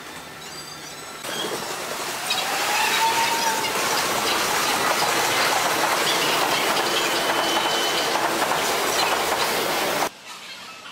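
Electric passenger train running past close by: a loud, steady rush of wheels on the rails with a brief rising squeal about two seconds in. It cuts off suddenly near the end.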